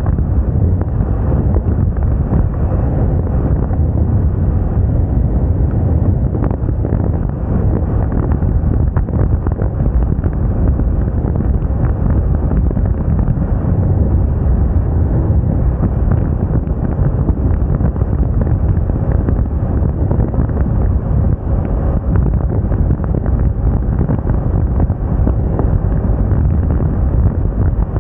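Steady, loud wind noise on the microphone of a moving scooter, over the running engine and road noise of a Moda Moca 110 scooter.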